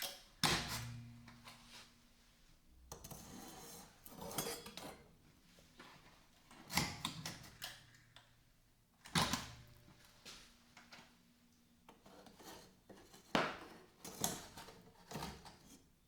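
Metal knife and tools being handled and set down: four sharp metallic clinks, some with a brief ring, with scraping and rustling between them.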